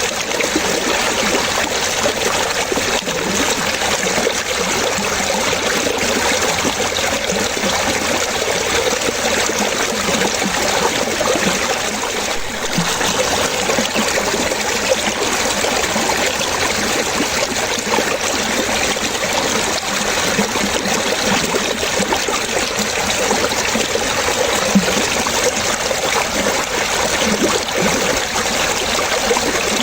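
Running water trickling and splashing steadily, like a small stream flowing over stones.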